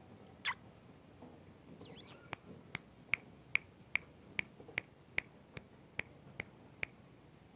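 A quick, evenly spaced series of about fourteen sharp clicks, a little over two a second, starting about two seconds in, after a short high squeak near the start.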